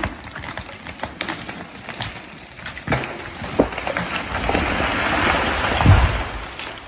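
A felled tree going over. Sharp cracks and splintering of wood come first, then a swelling rush of branches and leaves through the air. A thud as the trunk hits the ground about six seconds in is the loudest moment.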